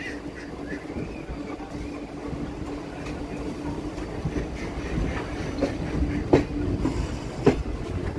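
Sabroom–Sealdah Kanchanjungha Express passenger train running, heard from an open coach door: a steady rumble of wheels on rail with a low hum. Sharp clacks as the wheels pass over rail joints stand out, loudest twice near the end.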